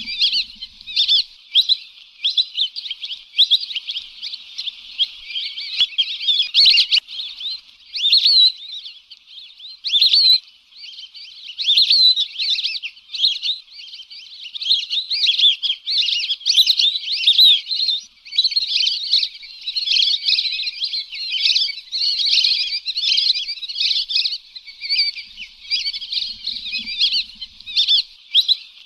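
Lesser whistling ducks calling: a continuous run of shrill, short whistles, many overlapping, with no let-up.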